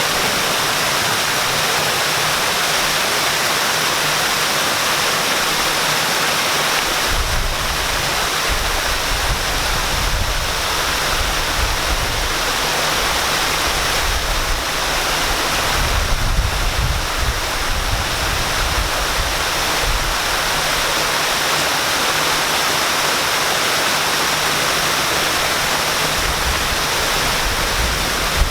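Waterfall: a steady, continuous rush of pouring, splashing water. From about seven seconds in, a low rumble comes and goes underneath.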